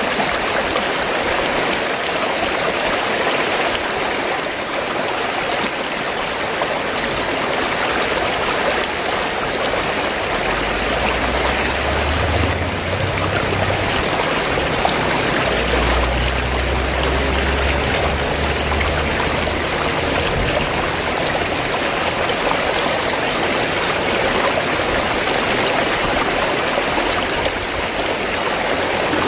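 Fast-flowing stream gurgling and rushing steadily. A low rumble rises under it about a third of the way in and fades out past the middle.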